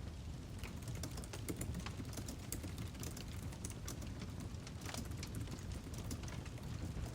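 Wood fire crackling, with irregular sharp snaps and pops over a low rumble.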